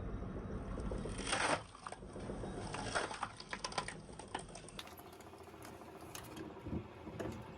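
A homemade firewood processor working wood. A low machine rumble ends in a loud rush about a second and a half in, followed by a run of light clattering knocks.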